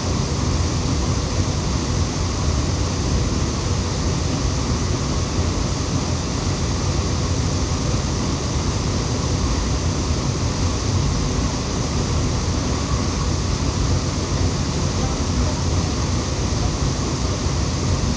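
Waterfall rushing, a steady even noise of falling water with no breaks.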